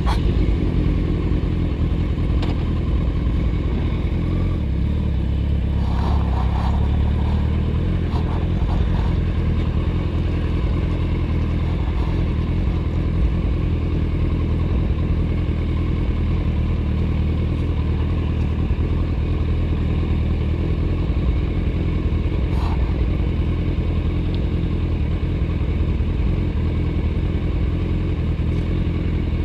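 Motorcycle engine idling steadily, its low pitch holding even with no revving, with a few faint short clicks over it.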